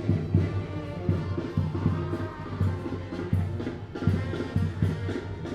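Tamborazo band music: drums beating steadily under a sustained wind-instrument melody.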